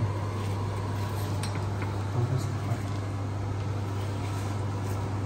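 A steady low hum runs under a few light taps and rustles as fresh sweet potato leaves are handled in a plastic bowl and gathered on a wooden cutting board.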